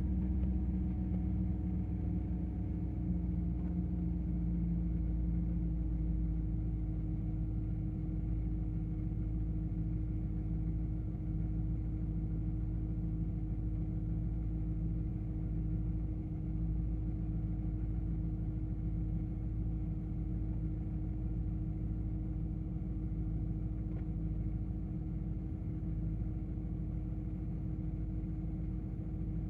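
BMW E39 M5's S62 4.9-litre V8 idling steadily after a cold start, a little louder in the first couple of seconds before settling.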